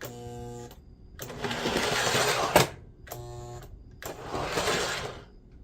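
Lionel 2032 Erie FA-1 model train locomotive running on the test track in two bursts of whirring motor noise. Each burst comes after a short steady buzzing hum, and there is a sharp click at the end of the first burst.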